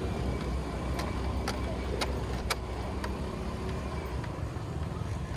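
Motorcycle running in traffic, a steady low rumble of engine and road noise, with a few sharp clicks about half a second apart around the middle.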